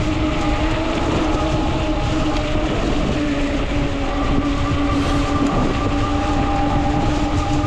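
Ecotric folding fat-tire e-bike at riding speed under motor assist: a steady whine from its hub motor and fat tires over heavy wind rushing across the microphone. The whine dips slightly in pitch about three seconds in, and higher overtones come in about a second later.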